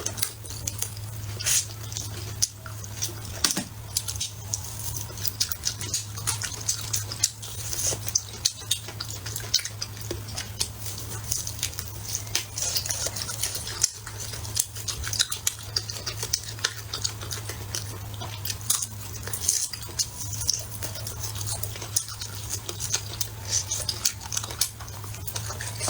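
Eating sounds: utensils clicking and tapping against dishes, and chewing of braised pork ribs, in frequent short clicks over a steady low hum.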